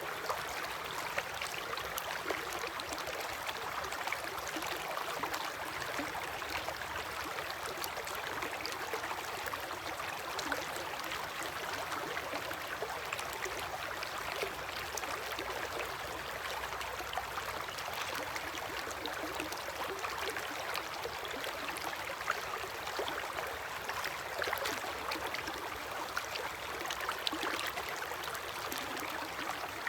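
River water flowing steadily past an eroding bank: an even rushing with many small splashes and gurgles.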